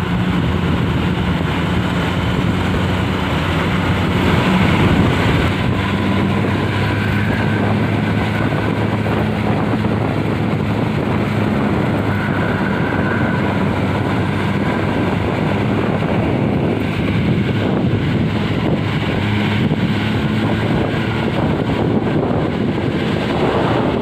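Vehicle engine running steadily under road noise, with wind buffeting the microphone.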